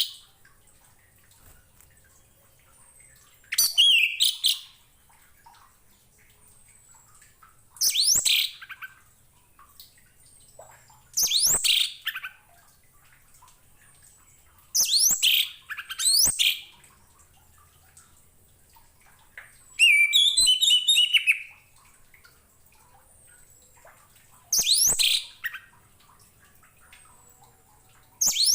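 Orange-headed thrush (anis merah) singing: about eight short phrases of fast, high, sweeping notes, spaced every three to four seconds, with one longer, jumbled phrase about two-thirds of the way through.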